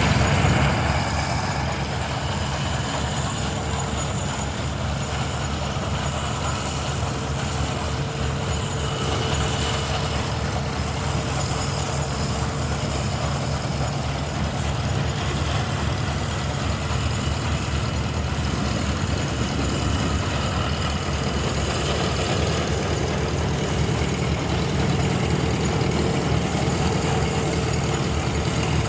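Robert Bell steam traction engine running steadily, with a fast, even mechanical beat.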